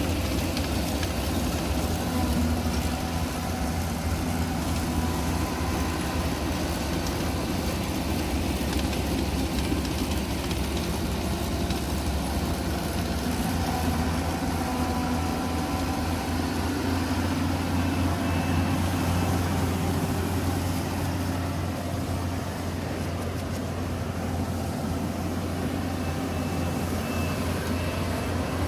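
Yanmar YH850 combine harvester running steadily while it cuts rice, a continuous engine and machinery drone.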